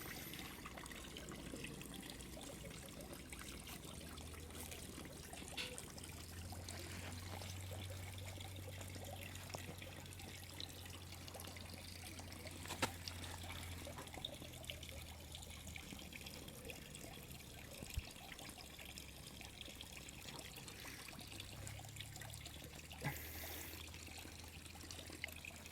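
Faint steady background noise that sounds like trickling water, over a low steady hum, with a few small clicks.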